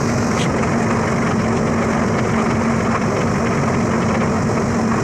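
Electric arc welding: the arc crackles and sizzles steadily, with a steady low hum underneath.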